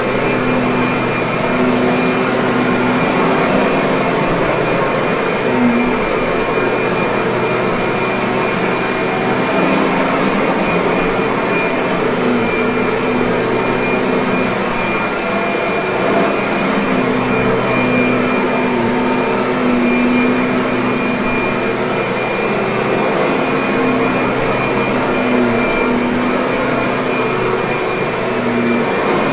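Kirby vacuum cleaner running steadily: a continuous motor whine and rush of air with a constant hum.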